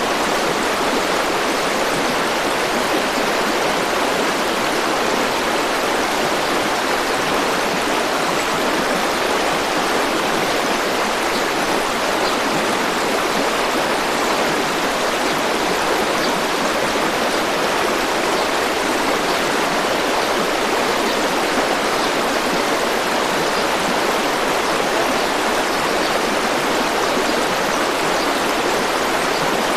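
A river or stream rushing steadily over rocks, an even, unbroken wash of water noise.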